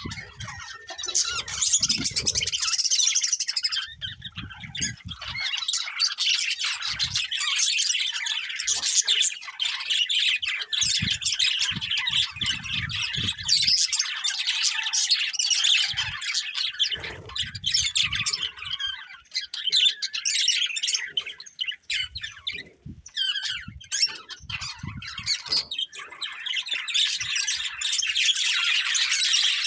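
Budgerigars chattering continuously, a dense stream of quick chirps, warbles and squawks, with soft low thumps here and there.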